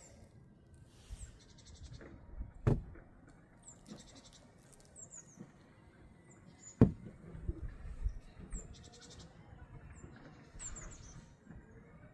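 Small birds chirping in short, high calls and quick trills, with two sharp knocks about three and seven seconds in.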